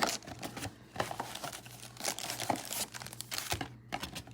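Packaging of a trading-card box crinkling and tearing as the box is opened and its packs are handled, a string of short crackles and rips.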